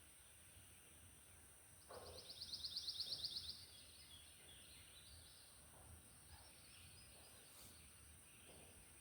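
A small bird's rapid trill, about a dozen high notes a second, growing louder over a second and a half, about two seconds in, over quiet outdoor ambience.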